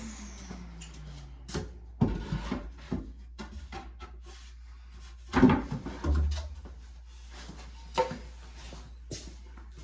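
A power tool's motor winds down with a falling whine in the first second. Then come a series of wooden knocks and clatters as cut shelf boards are handled and pushed into place, the loudest about five and a half seconds in.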